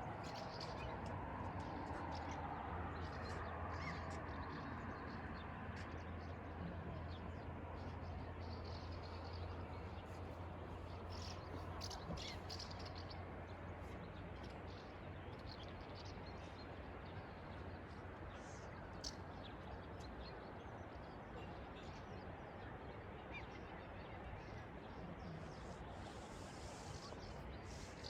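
Outdoor ambience: a steady faint background wash with a few short bird calls. A low hum sits underneath and fades out about twenty seconds in.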